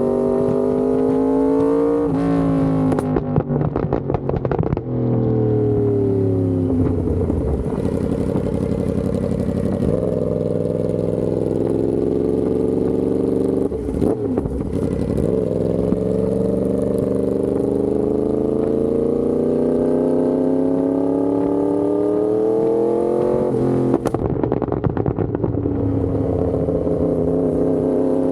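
Yamaha R1M's inline-four sportbike engine through an SC Project exhaust, accelerating with its pitch climbing over long pulls. About three seconds in and again near the end, the throttle closes and the exhaust pops and crackles on the overrun before the engine pulls again.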